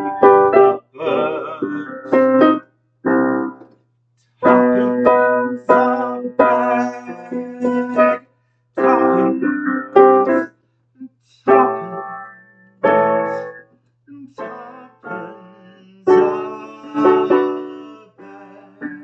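Piano chords played slowly with no singing, each chord struck and left to fade, in halting phrases broken by short pauses. A faint low hum runs underneath.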